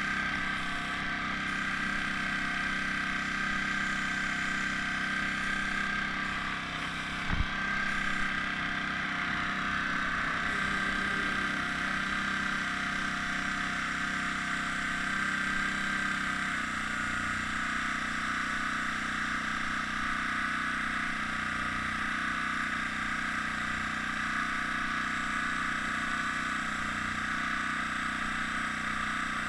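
Air compressor running steadily to feed an airbrush, with a single short knock about seven seconds in.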